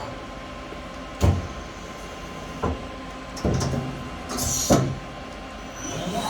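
Mori Seiki Frontier L2 CNC lathe running with a steady hum, broken by several sharp knocks and clunks and a brief sliding hiss about two thirds of the way through.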